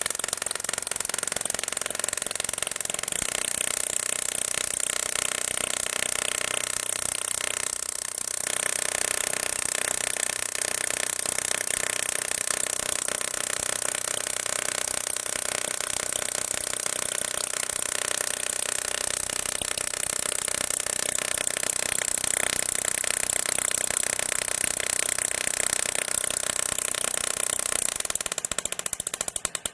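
Modified high-voltage 'lightning' fan running with a steady mechanical whir. Near the end the sound breaks into rapid pulses.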